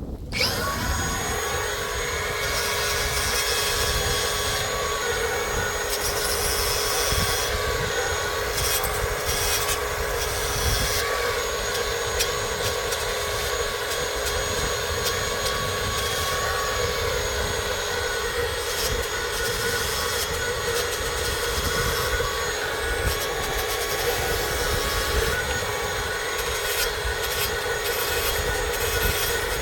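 Electric grinder with a wire brush starting up and spinning up to speed, then running steadily with a harsh scratching as it scrubs old paint and grime off the fire hydrant parts.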